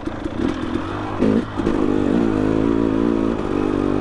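Two-stroke dirt bike engine running at low speed under throttle, its pitch wavering as the throttle is worked. It gets louder and revs higher about one and a half seconds in.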